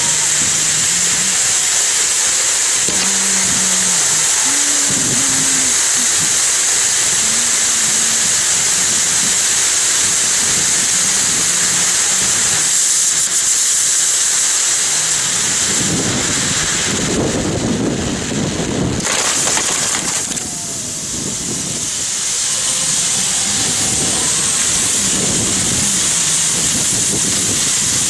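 Ground firework fountains hissing steadily, with faint voices underneath.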